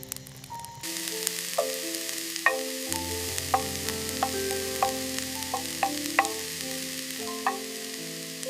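Food sizzling in a pan over the fire, starting about a second in, with sharp clicks scattered through it. Background music plays underneath.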